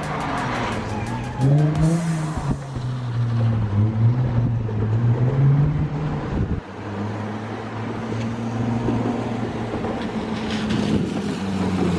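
Car engine running under way, its pitch rising and falling as it revs up and settles. The sound breaks off abruptly about six and a half seconds in and picks up again at a steadier pitch.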